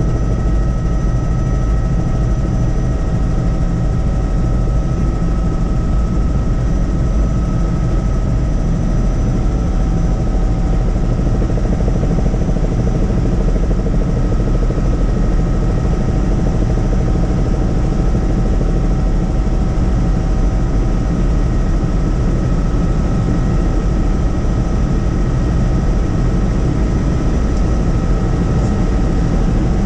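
Helicopter in steady flight: a loud, unchanging rotor and engine rumble, deepest at the bottom, with a few steady whining tones above it.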